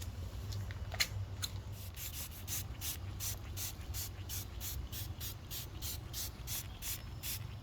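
Trigger spray bottle squirting bug-remover pre-treatment onto a car's paint in a quick steady series, about three squirts a second, over a faint low hum.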